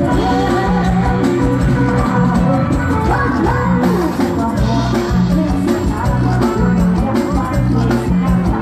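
Live band music with a singer, over a steady repeating bass beat.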